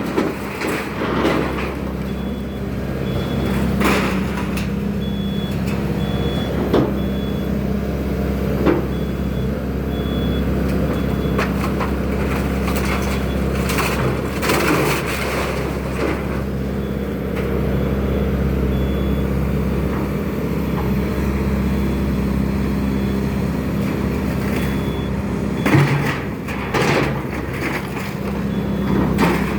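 Excavator's diesel engine running steadily under load, with irregular crashes and clanks of demolition debris, the loudest around the middle and near the end.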